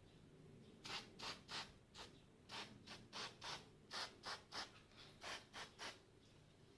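A run of short rubbing strokes, about three a second, starting about a second in and stopping near the end.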